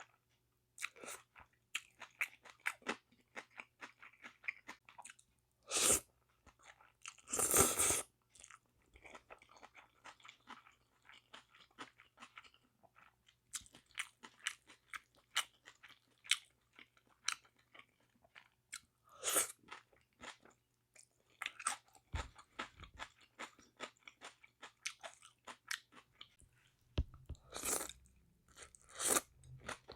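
Close-miked mouth sounds of a person eating spicy whelk bibim noodles: steady chewing with many small wet clicks and smacks. Louder, longer noisy bursts come a few times, about six and eight seconds in and again near the end.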